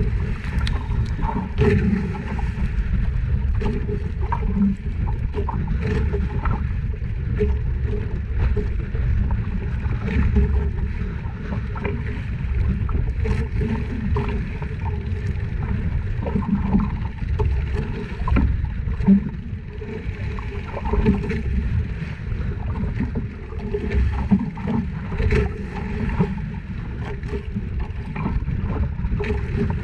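Small fishing boat at sea: a steady low engine hum mixed with wind and water noise, with scattered light knocks.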